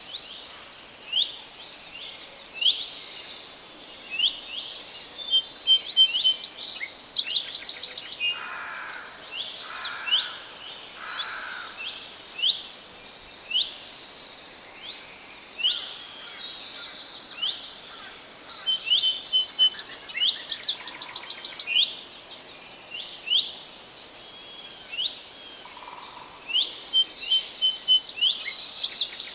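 Several songbirds singing at once in a forest: a dense chorus of quick high chirps and short trills that overlap one another, with a few lower, softer notes about a third of the way in, over a faint steady background hiss.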